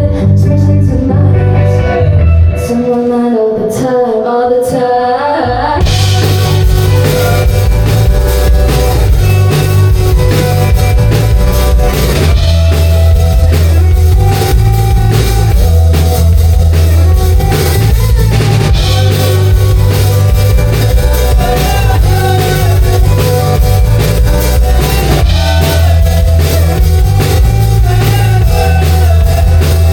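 Live rock band playing loud, with electric guitar, bass guitar and drum kit. Around the third second the bass and drums drop out, leaving a bending melodic line on its own, and the full band crashes back in about six seconds in.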